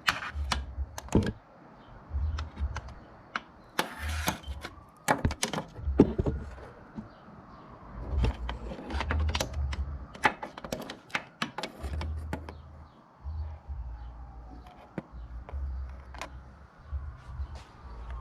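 Irregular sharp clicks and knocks, with low rumbling bursts in between.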